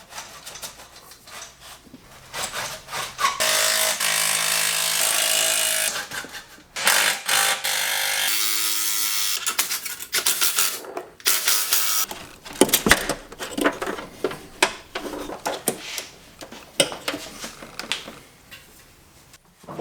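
A power tool runs in two steady stretches of a few seconds each, among scattered clanks and clicks of hand tools and parts being worked.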